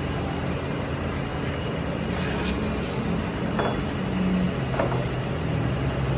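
A steady low motor hum, with a few faint clicks in the middle.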